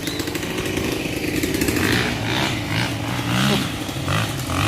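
Motocross dirt bike engine running loudly and revving, its pitch rising and falling.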